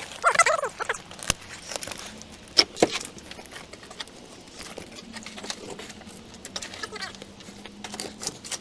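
A short, strained vocal sound from a person at the start. Then a few sharp knocks and clatter of hard objects being handled, with faint voices near the end.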